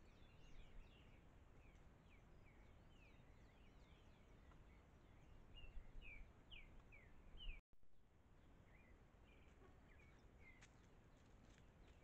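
Faint wild birdsong: many short, quick chirps, several sliding down in pitch, over a faint steady low background noise. The sound drops out briefly about two-thirds of the way through, and the chirping carries on after.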